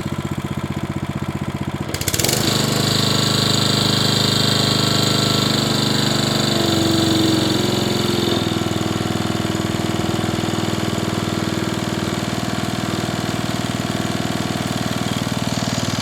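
A 1995 Toro Super Recycler's 6 hp Briggs & Stratton engine runs steadily at mowing speed. The sound gets slightly louder and brighter about two seconds in.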